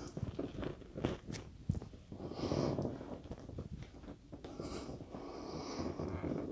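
A person breathing hard with exertion during a braced core exercise: two long, noisy breaths, about two and five seconds in. A few soft knocks from body movement come before them.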